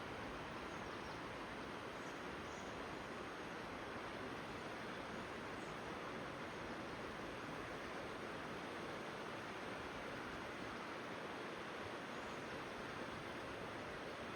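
Steady rushing of flowing river water, an even hiss-like noise without change.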